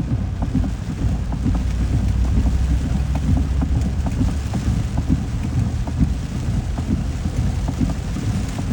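Heavy rain falling steadily, with many individual drops tapping on a surface over a constant low rumble.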